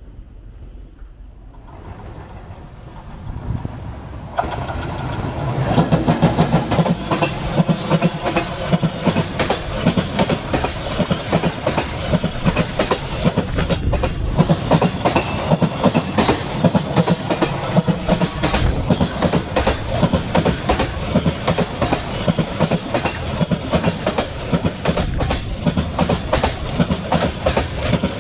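JR Freight freight train behind an EF210 electric locomotive passing close by, its wheels clattering over the rail joints in a steady clickety-clack rhythm. The sound grows from a faint rumble over the first few seconds and is loud from about six seconds in.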